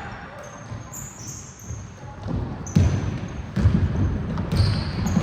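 A basketball bouncing on a hall floor during play, the thuds starting about halfway in and coming roughly once a second, among players' running steps and a few short high squeaks.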